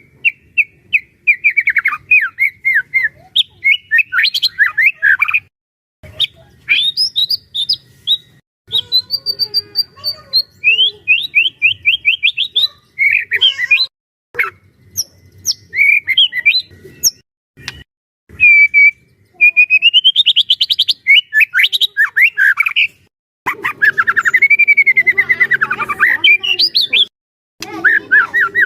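White-rumped shama (murai batu) singing: fast, varied whistled phrases, rapid trills and rising and falling glides, delivered in bursts with brief pauses between them.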